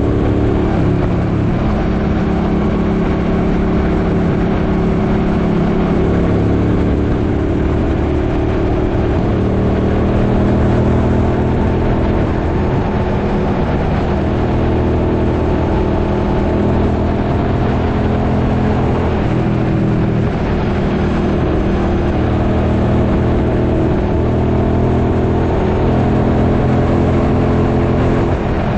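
Suzuki Boulevard M50's 805 cc V-twin engine running under way at a fairly steady cruising pitch, rising and dipping a little now and then, with wind noise rushing over the microphone.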